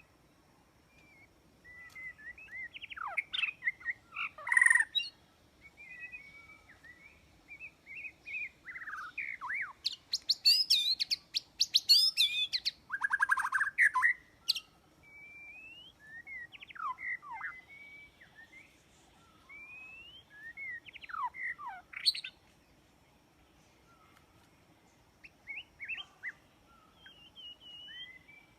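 White-rumped shama (murai batu) singing a varied series of whistled phrases and sliding notes with short pauses between them. Louder, fast rattling trills come near the middle.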